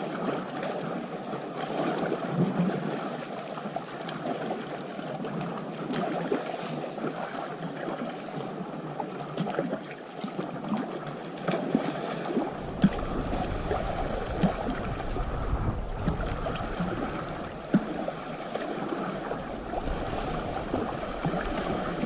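Sea water splashing and gurgling against a kayak as it is paddled. About halfway through, a low rumble of wind on the microphone joins in.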